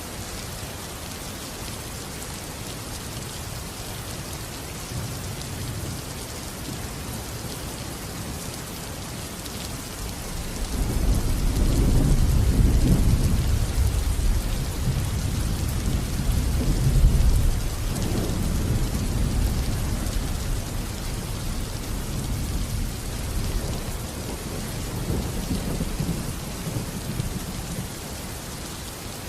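Steady heavy rain, with a long rolling rumble of thunder that swells about ten seconds in and slowly fades in waves toward the end.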